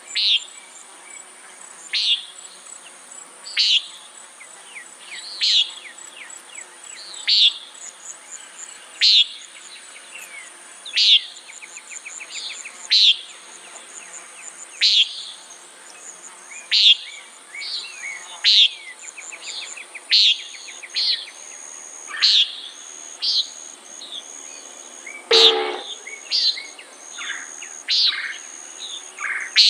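Common nighthawk giving its short 'peent' call over and over, about once every two seconds, over a steady high drone of crickets. Smaller chirps fall between the calls, and about 25 seconds in there is one louder, lower-reaching sound.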